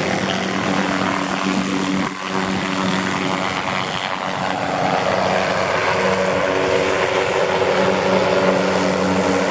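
MD530FF light helicopter running steadily: a turbine engine and rotors giving a loud, even hum of several steady tones over a rushing noise, with a brief dip about two seconds in.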